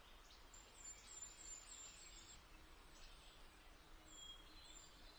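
Near silence with a faint hiss and a few faint, high bird chirps, a quick run of them in the first couple of seconds and a few more later.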